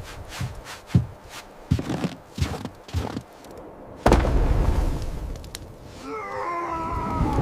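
A run of irregular knocks and thuds, about eight in three seconds, then a sudden loud rush of noise about four seconds in. A wavering pitched sound starts near the end.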